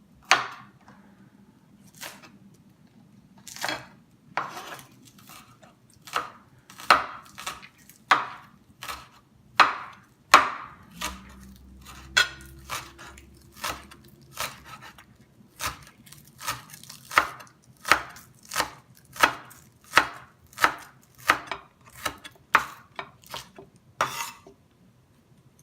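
Knife chopping spring onion on a cutting board: a few separate chops at first, then a steady run of about two chops a second.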